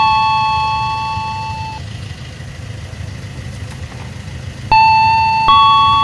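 Railway level crossing warning chime: a repeating melody of electronic bell-like notes, each struck and ringing away. One round's last note dies out about two seconds in, and the next round begins just before five seconds with two notes, over a low steady rumble.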